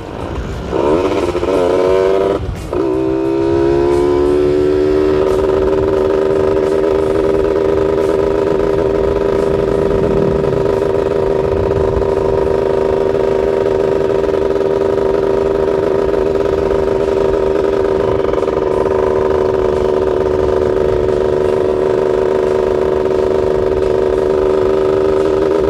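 Yamaha F1ZR's two-stroke single-cylinder engine revving hard under acceleration. Its pitch climbs through the first few seconds, with a short dip about two and a half seconds in at a gear change, then holds at steady high revs for the rest.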